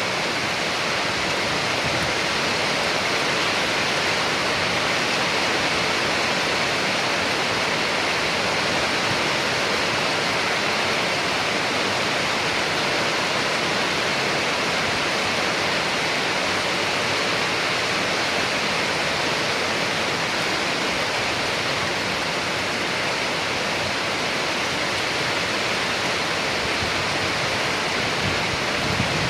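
Steady, even rainfall: a dense hiss of rain with no distinct drops or thunder standing out.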